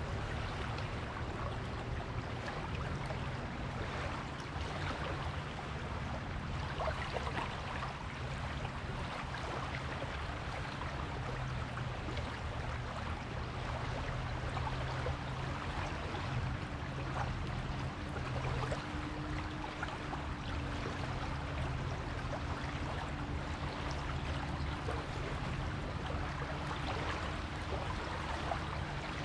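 Beach ambience: a steady wash of small waves and water on the shore, with no big breaking waves. A faint, steady low hum runs underneath.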